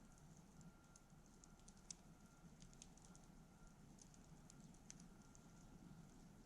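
Wood campfire crackling faintly, with irregular small pops and snaps.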